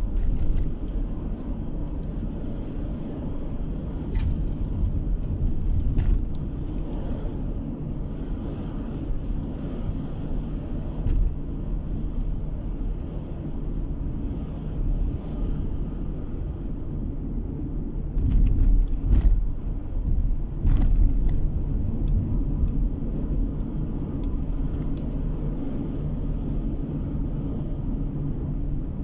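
Steady low rumble of a car driving, tyre and engine noise heard from inside the cabin, with occasional sharp knocks, several close together about two-thirds of the way in.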